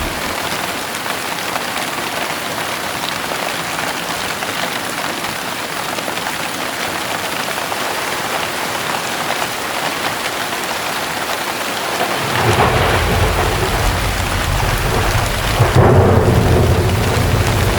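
Heavy rain falling steadily, with thunder rumbling in about twelve seconds in and growing louder near the end.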